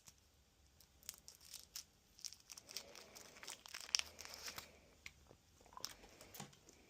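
A Kit Kat wrapper being torn open and crinkled: a run of faint, crackly rustling and tearing, loudest about four seconds in.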